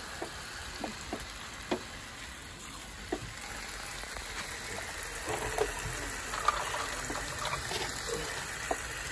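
Water running and splashing as pet cockatiels are showered and bathe in their cage, with a few short sharp taps in the first few seconds and more splashing in the second half.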